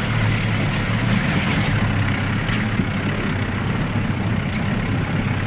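Vehicle engine running steadily while driving on a dirt road: a low, even hum with road noise.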